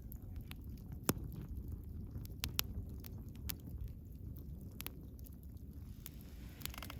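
Wood fire burning with a low steady rumble and irregular sharp crackles and pops, the loudest about a second in and a quick pair about two and a half seconds in.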